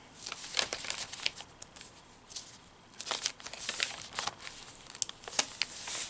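Paper crinkling and rustling in a few short bouts, with sharp papery clicks, as the pages and tucked-in paper pieces of a handmade junk journal are handled.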